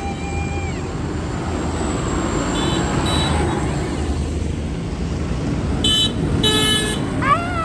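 Passing tractors' engines running steadily, with short horn toots about three seconds in and two louder horn blasts around six seconds in.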